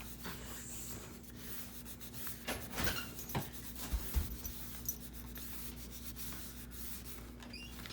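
Paper and card being handled and rubbed, as a postcard is tucked into a paper pocket and pressed down, with scattered light taps and rustles.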